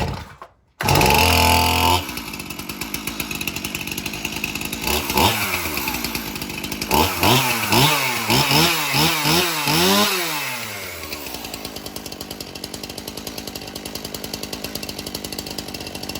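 Stihl MS 291 Farm Boss two-stroke chainsaw cold-starting on half choke: it catches suddenly about a second in and runs fast, then the throttle is blipped, about six quick revs around the middle, before it settles to a steady idle.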